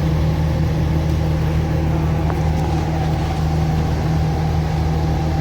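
Vehicle engine running with a steady, unchanging low hum.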